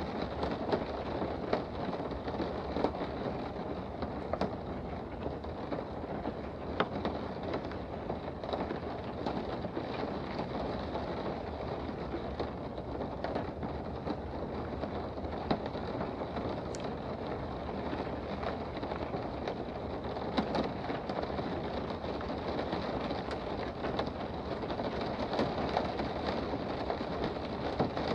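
Steady rain heard from indoors: a dense, even hiss with scattered sharper ticks of single drops striking.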